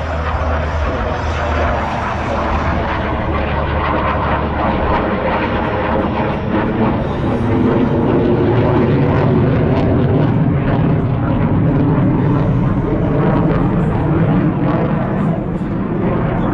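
Jet noise from F/A-18 Super Hornets flying past, a continuous loud rush that grows louder and deeper about halfway through.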